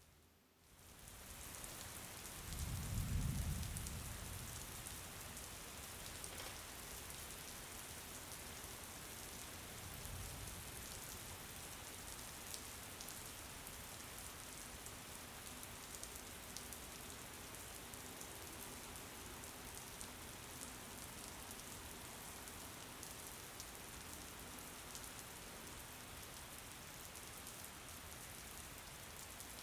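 Steady rain, building back up from a brief dip in the first second or two. A low rumble about three seconds in is the loudest moment, with a fainter one around ten seconds.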